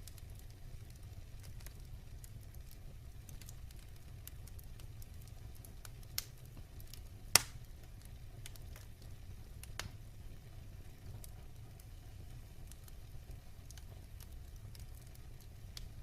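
Wood fire burning in a fireplace: a low steady rumble with scattered crackles. A sharp pop about six seconds in and a louder one just after seven seconds stand out.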